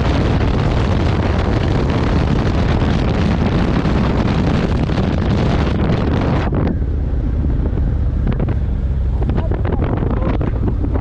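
Wind buffeting the microphone on a moving Indian motorcycle, over the bike's engine and road noise. The hiss of the wind eases about two-thirds of the way in, while the low rumble carries on.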